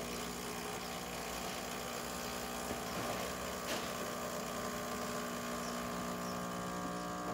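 Rancilio Epoca espresso machine's pump running with a steady hum while pulling a shot of espresso.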